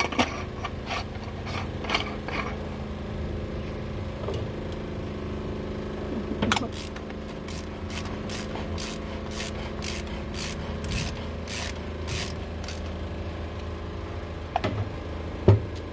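Mechanical clicking over a steady hum: a few scattered clicks, then a run of evenly spaced sharp clicks, about two a second, for around six seconds in the middle.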